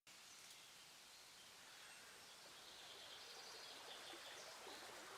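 Near silence: a faint, even hiss that grows slightly louder towards the end.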